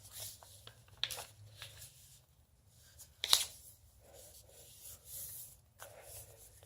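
A sheet of paper being folded and creased by hand, making soft rustles and crinkles. There is a sharper crackle about three seconds in.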